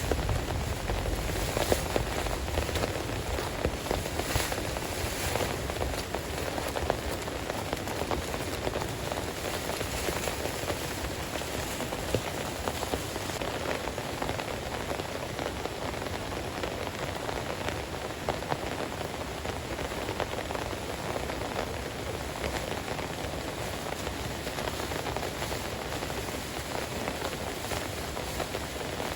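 Heavy rain falling steadily, with a few louder drop hits in the first seconds.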